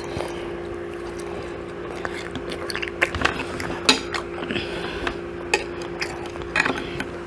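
Eating sounds at a table: cutlery and dishes clicking, with scattered short mouth and liquid sounds, over a steady low hum.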